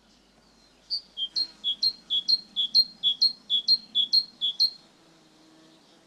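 Great tit singing its two-note song: a higher note followed by a lower one, repeated about eight times in quick succession, starting about a second in and stopping near the five-second mark.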